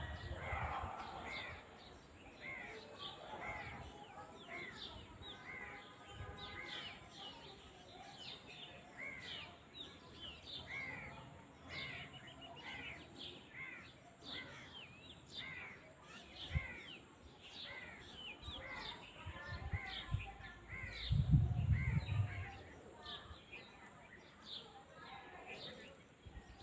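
Outdoor chorus of small birds chirping and calling steadily throughout. About three-quarters of the way in there is a brief low rumble, which is the loudest sound, and a little earlier a single low knock.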